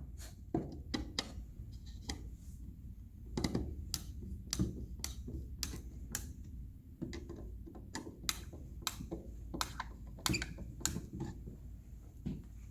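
Irregular light clicks, taps and knocks as the toy dollhouse's wooden panels and small screws are handled and fitted together.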